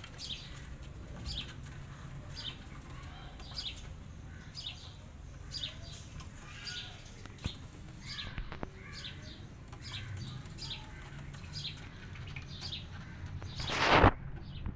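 Small birds chirping over and over, short high chirps every second or so, over a low steady hum. Near the end there is one brief, loud rustling scrape.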